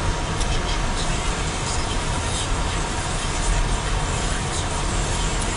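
Steady road noise of a car driving on wintry roads: a constant low rumble with tyre hiss over it.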